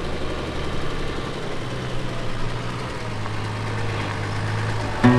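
Off-road 4x4's engine running at low revs, a steady low drone that shifts a little higher about a second and a half in. Music comes in at the very end.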